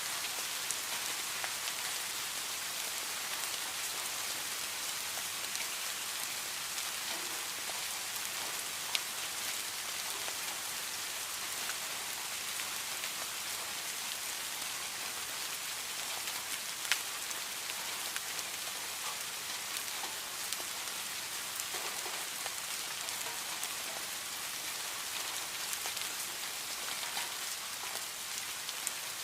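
Steady rain falling on a hard surface: a continuous hiss with many fine drop ticks, and a couple of sharper single drips standing out.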